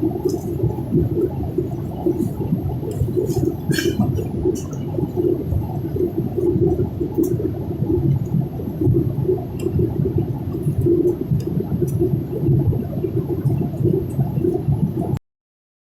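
Airliner cabin noise in cruise: the steady low rumble of engines and airflow. It cuts off suddenly near the end.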